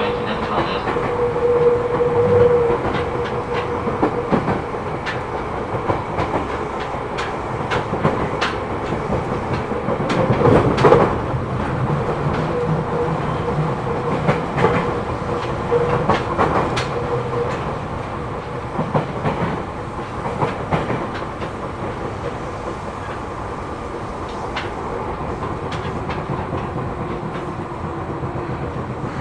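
Seibu New 2000 series electric train running, heard from inside the passenger car: a steady running rumble with clicks and knocks from the wheels over the rails. The car has a flat spot on a wheel, heard as a flat-wheel knock. A humming tone comes and goes, and the running eases slightly toward the end.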